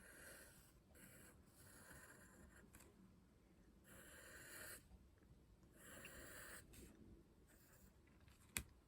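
Faint pencil strokes scratching across paper in several short passes as a drawing is sketched, with a single sharp click near the end.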